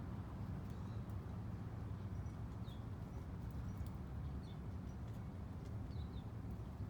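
A few short, faint bird chirps, each dipping slightly in pitch, heard several times over a steady low background rumble.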